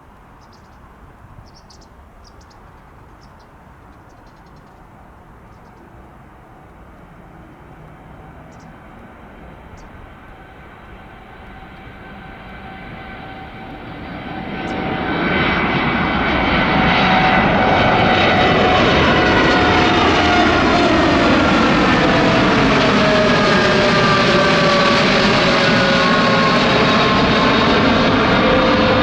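Jet engines of a Boeing 787 Dreamliner, faint at first, swelling to a loud steady rumble about halfway through. A cluster of whining tones sinks in pitch as the aircraft goes past.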